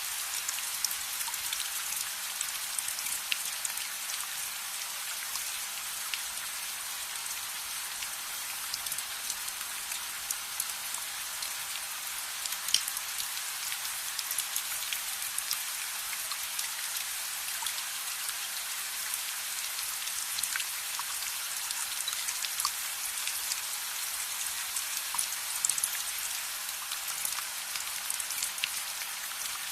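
Steady rain: an even hiss dotted with many small, sharp ticks.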